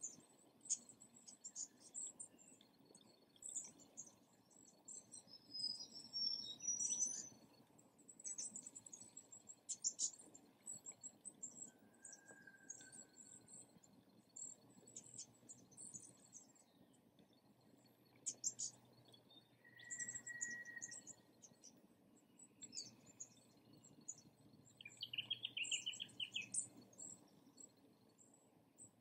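Small birds chirping and calling, mostly short thin high chirps, with a couple of lower whistled notes and a fast trill near the end.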